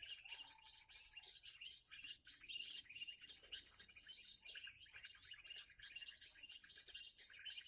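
Many small birds chirping and trilling quickly and continuously, their calls overlapping, faint.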